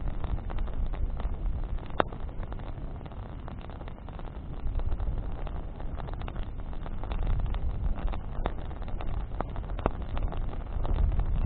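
Campfire of burning branches crackling, with scattered sharp pops, the loudest about two seconds in, over a steady low rumble.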